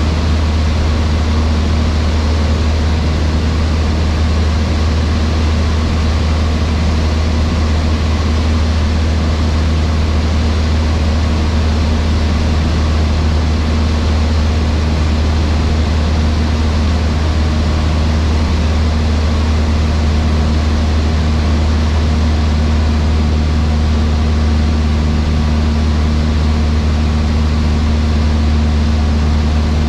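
Cessna 152's four-cylinder Lycoming O-235 engine and propeller droning steadily in flight, heard from inside the cockpit, with a deep even hum and a wide rush of noise over it.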